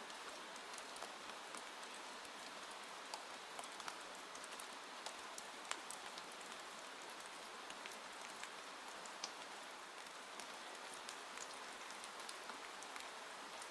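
Steady rain on a window: an even hiss with many small, irregular drop ticks against the glass.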